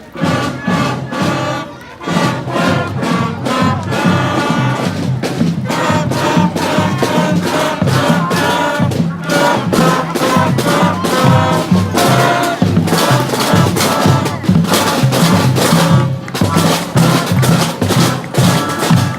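A band playing live music, with pitched instruments over a steady drum beat; it breaks off briefly about two seconds in, then plays on.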